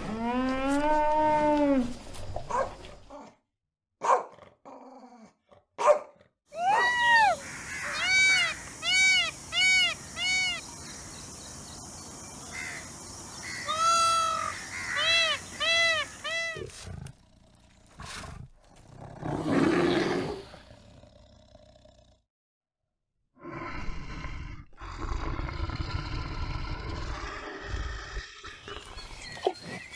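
A cow moos once, a long rising-then-falling call. Then a peacock calls over and over, a quick series of loud, arching cries. Near the end comes a low, rough growling from a black bear.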